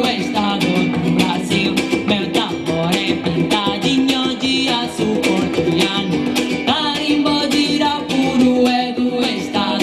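Live carimbó band music: plucked strings over a fast, steady percussive beat, with singing.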